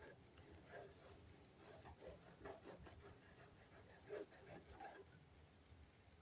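Near silence with faint, irregular short sounds of a knife cutting pine needles.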